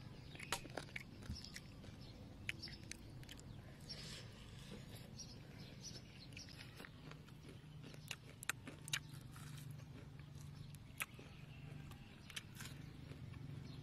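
A person biting and chewing crispy deep-fried pork ribs: scattered short crunching clicks and mouth sounds, over a faint steady low hum.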